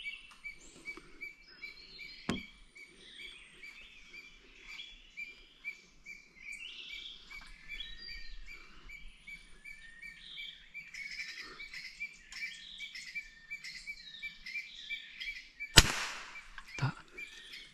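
Several birds chirping and calling, with short whistled glides, over a steady high note that pulses a few times a second. There is a faint click about two seconds in, and a sharp, loud knock near the end.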